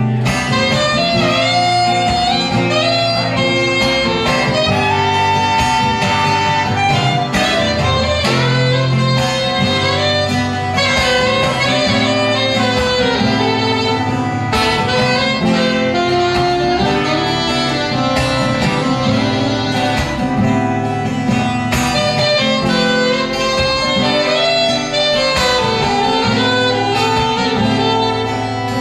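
Acoustic guitar strumming an accompaniment while a saxophone plays the melody.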